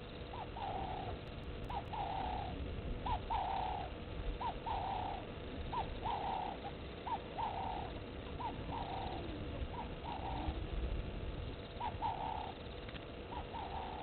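A bird repeating a two-note call steadily, a short high note followed by a longer wavering one, roughly once every second and a half, over a low outdoor rumble.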